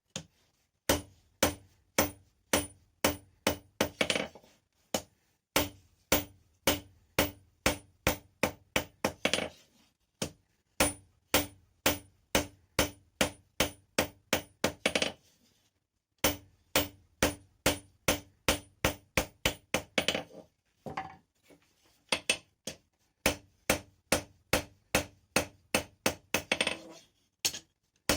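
Blacksmith's hammer striking hot rebar on an anvil, in steady runs of about three blows a second broken by short pauses, each blow with a brief ring.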